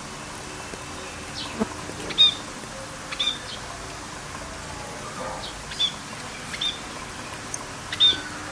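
Short bird chirps, about five spread through, over a steady hiss of rain.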